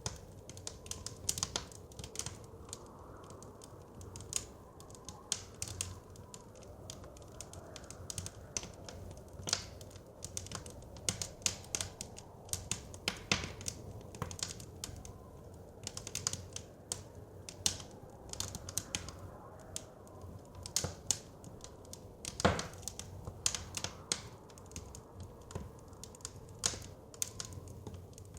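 Wood fire crackling with frequent irregular sharp pops and snaps over a steady low rumble of flames and wind, one louder pop about 22 seconds in.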